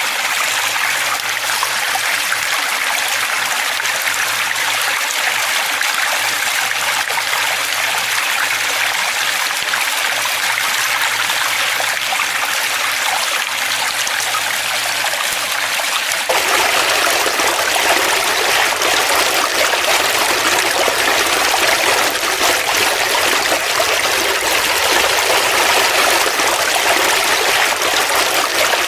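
Flowing water running steadily, with a rushing, trickling noise. A little past halfway it abruptly becomes fuller and slightly louder, with more low rumble.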